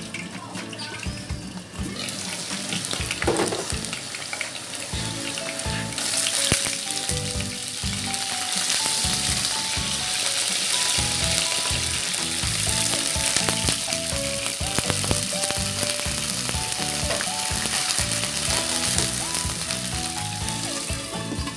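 Chopped garlic and onion sautéing in hot oil in a nonstick wok, a steady sizzle stirred with a silicone spatula. The sizzle gets much louder about six seconds in.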